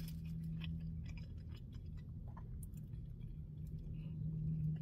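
A man chewing a mouthful of cheeseburger with mouth closed: soft, scattered smacking clicks, with a low steady hum under it at times.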